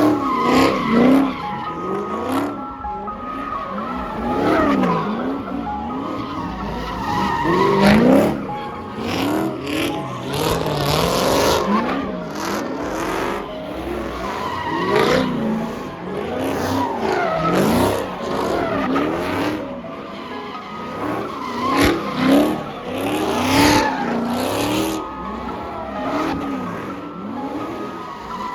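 Cars spinning at a street takeover: engines revving up and down over and over, with tires squealing and skidding on pavement.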